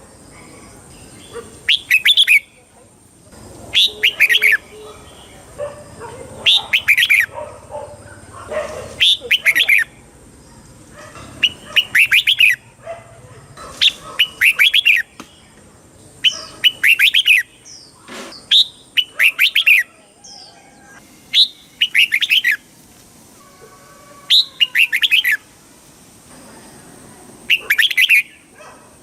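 Red-whiskered bulbul singing, repeating short, loud, bubbling song phrases about every two seconds.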